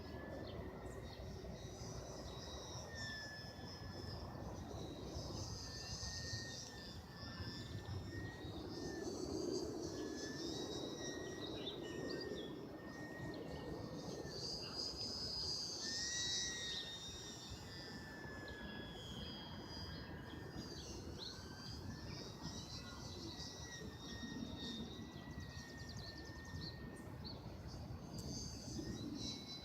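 Faint, thin whine of a small electric RC warbird's motor and propeller (E-flite UMX P-47) in flight, wavering and bending in pitch as the plane moves about the sky. Wind rumbles on the microphone underneath.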